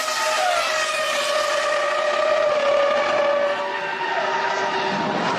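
Formula One V10 engines running at high revs, a high-pitched whine that holds steady and then drops in pitch about four seconds in, as on a downshift.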